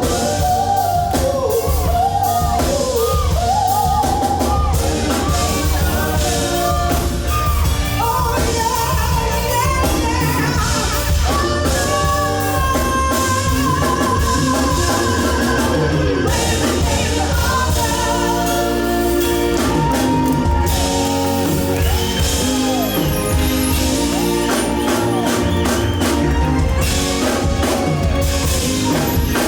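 A singer sings a melismatic vocal line, backed by a live band with drums and guitar.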